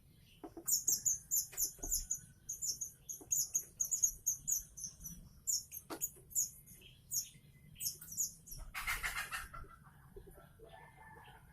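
Weaver chick begging calls: runs of rapid, very high chirps, the sign of a hungry nestling being hand-fed. Near the end there is one short, louder noisy burst.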